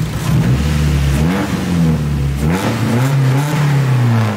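Straight-piped Nissan 240SX (S13) KA24 2.4-litre four-cylinder engine being revved, its note rising and falling several times, running clean now that the misfire is cured. Loud and raspy enough to be called obnoxious.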